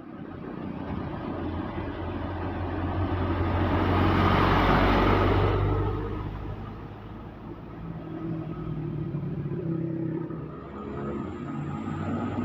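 A truck drives past on the road, its engine rumble swelling to its loudest about four to five seconds in and then fading. Another vehicle's engine runs on after it.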